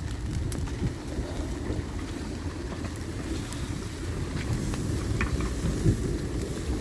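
Steady low rumble of heavy rain and wind, with a few light scattered taps of drops.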